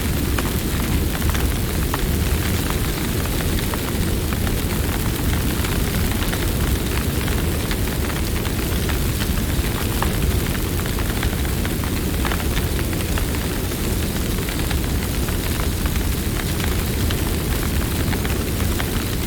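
Campfire burning: a steady low rush of flames with scattered sharp crackles and pops from the wood.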